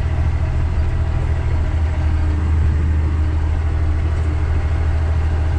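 A truck's engine running steadily while it drives, making a constant low drone.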